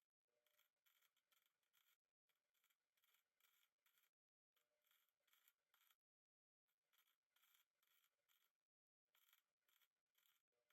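Near silence: only a very faint hiss that keeps dropping out into total silence.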